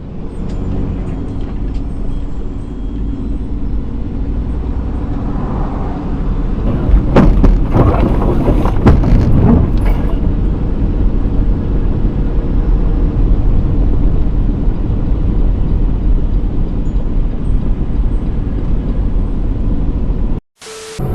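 A motor vehicle's engine running with a steady low rumble, getting louder and rougher with a clatter of short knocks for a few seconds around the middle, then cutting off abruptly near the end.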